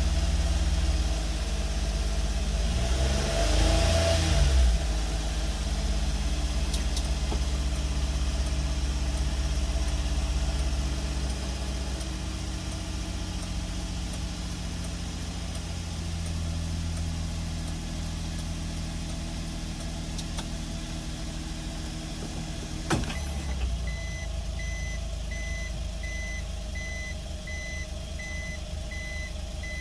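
Nissan NT100 Clipper kei truck's 658 cc three-cylinder engine idling, revved up and back down once about three to four seconds in, then running at a steady idle. About 23 seconds in there is a click, and after it a repeated high beep starts: the truck's reverse warning buzzer.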